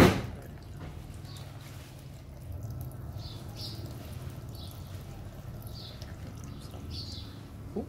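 A sharp knock right at the start, then faint short bird chirps repeating every second or so over a low steady hum.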